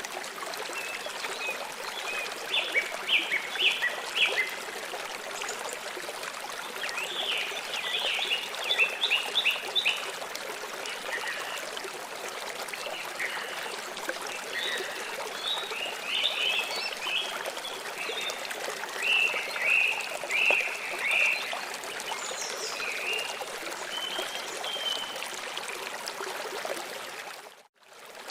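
Steady flow of a stream of water, with small birds chirping over it in short clusters of quick chirps. The sound drops out briefly near the end.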